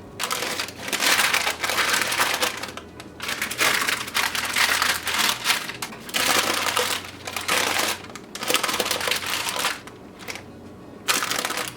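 Parchment paper crinkling and crumpling in irregular bursts as it is handled around a baking pan.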